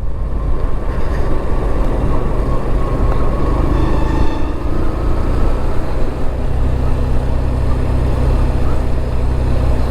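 Motorcycle engine running steadily while riding, with wind and road noise; its low note grows a little stronger about two-thirds of the way through.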